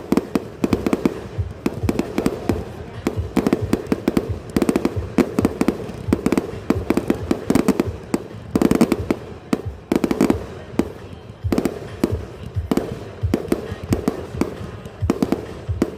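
Fireworks display going off: a continuous stream of sharp bangs and crackles, many in quick rapid-fire clusters, with heavier volleys about a second in, near nine seconds and around ten seconds.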